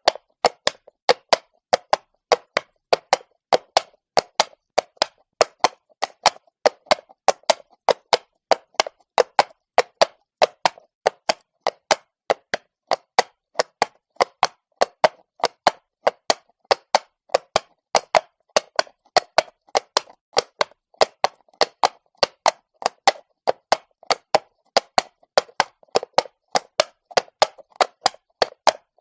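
Horse walking on stone, its hooves striking in a steady, even rhythm of sharp clip-clops, about two to three a second.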